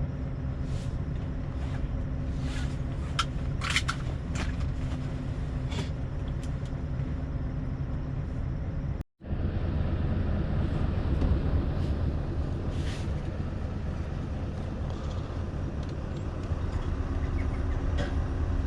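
Scania V8 truck engine running steadily, with road and cab noise and a few scattered clicks and knocks in the first several seconds. The sound cuts out completely for an instant about nine seconds in, then returns louder and deeper.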